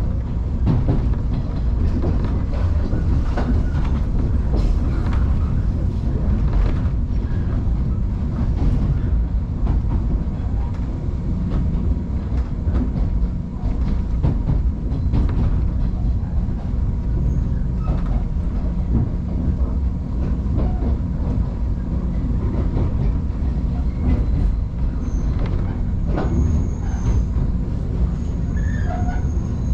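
JR Kusatsu Line electric train running, a steady low rumble from inside the car with scattered clicks of the wheels over rail joints. Faint high-pitched wheel or brake squeals come in near the end as it comes into Kibukawa station.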